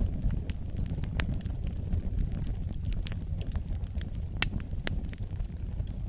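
Campfire burning: wood crackling with frequent sharp pops over a low, steady rumble, one pop louder about two-thirds of the way through.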